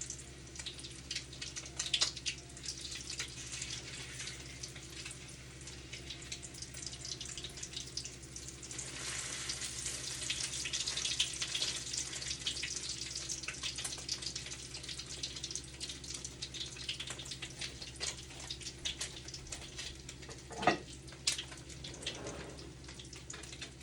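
Eggs and chicken breast frying in hot oil in a pan: a steady sizzle with crackles and pops, swelling louder for a few seconds partway through. Two sharper knocks come near the end.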